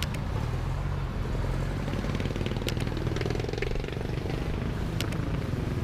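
Motorcycle engine running steadily while riding, its pitch swelling slightly midway, with a few short clicks.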